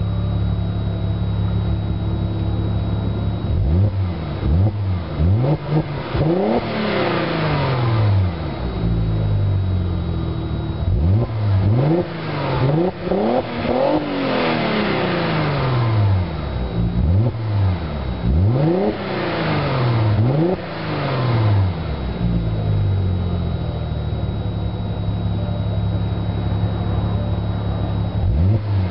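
Audi A6 2.7T twin-turbo V6 with a 3.5-inch Magnaflow axle-back exhaust, revved while standing still. It idles steadily for a few seconds, then is blipped and revved repeatedly, with the pitch rising and falling back each time. It settles to idle again, with one more rev starting near the end.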